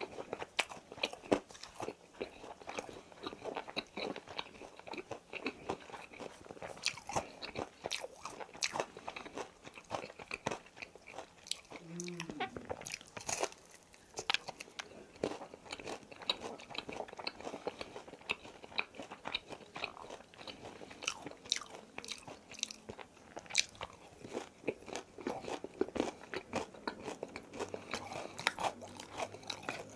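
Close-up chewing and crunching of crispy boneless fried chicken, the coating cracking in many small crisp crunches all through.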